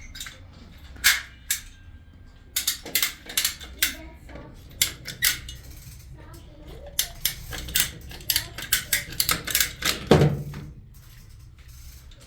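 An irregular series of sharp clicks and taps of hard objects, coming in quick clusters, with one heavier knock about ten seconds in.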